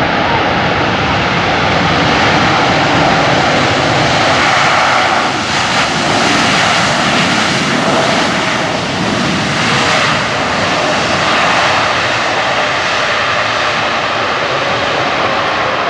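Jet airliner passing close, its engines loud and steady, with a faint whine held through the noise.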